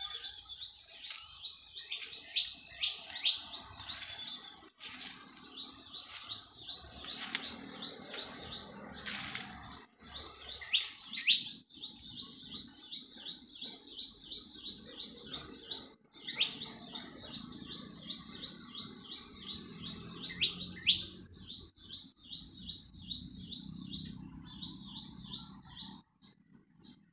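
A bird calling in a fast, steady run of short high chirps, about five a second, pausing briefly a few times. Scattered crackling noises sound over the first half.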